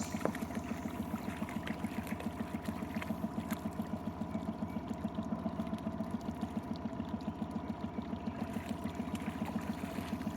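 A small boat's engine idling steadily, with a fast, even pulse.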